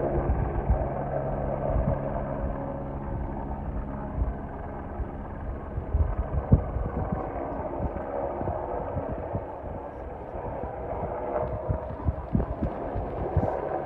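Helicopter running steadily, its engine and rotor giving a constant drone of several held tones, broken by irregular low thumps.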